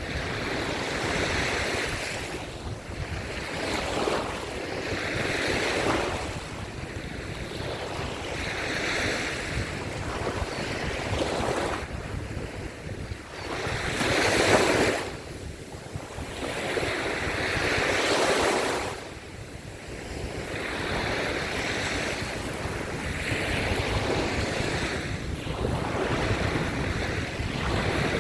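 Sea waves washing up onto a sandy beach, each surge swelling and fading every few seconds, with the biggest surge about halfway through. Wind buffets the microphone with a low rumble.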